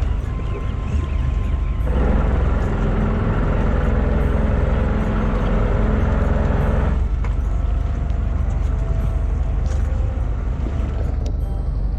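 Fishing boat's engine running with a steady low rumble, louder and fuller for about five seconds from two seconds in.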